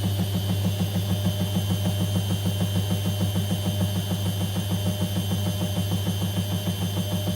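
Whirlpool front-loading washing machine running on a 30° delicate programme: a steady hum with a fast, even pulse about six times a second.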